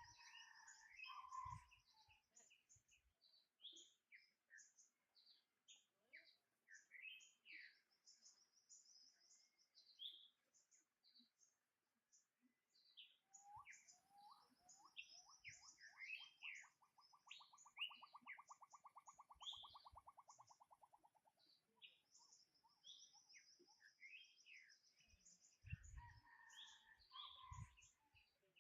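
Several wild birds chirping and singing, with short high chirps and repeated high notes throughout. Midway there is a rapid trill lasting several seconds, and a few low thumps come near the start and near the end.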